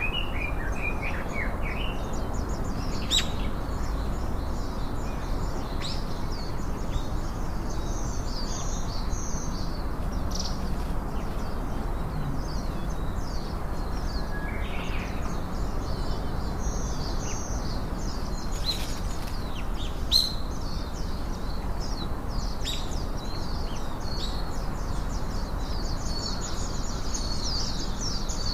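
Small songbirds chirping and twittering in quick high notes over a steady background hiss, the chirping growing dense near the end, with a couple of sharp clicks.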